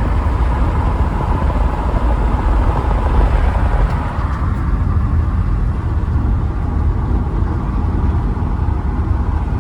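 Steady low rumble of a car driving along a road, tyre and engine noise heard from inside the moving vehicle.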